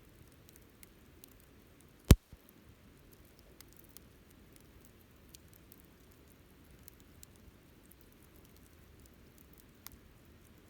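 Wood fire crackling faintly with scattered small ticks, and one loud, sharp pop about two seconds in.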